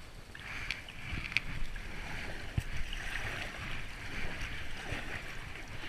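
Water rushing and splashing around a kayak on a river, with low wind rumble on the microphone and a few light knocks.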